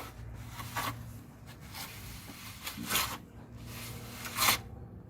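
A hand tool scraping and rubbing over a freshly applied coat of clay plaster on an adobe wall, smoothing it: three short strokes about a second and a half apart.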